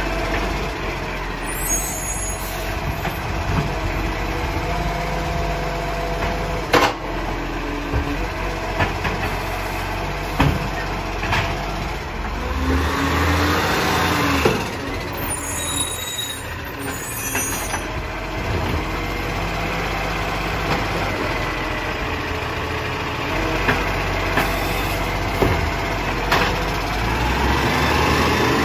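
Garbage truck on a recycling collection: diesel engine running steadily, with scattered knocks and clatter, a brief rising-then-falling whine about halfway through, and a few short hisses of air.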